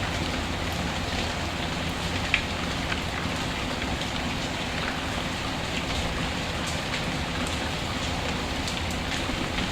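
Steady rain falling, mixed with scattered small crackles and pops from a wood fire in a fireplace, one sharper pop a couple of seconds in.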